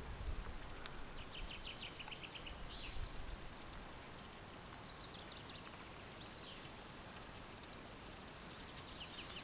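Songbird singing faintly in short bursts of rapid, high repeated notes, about a second in, again halfway through and near the end, over a quiet outdoor hush.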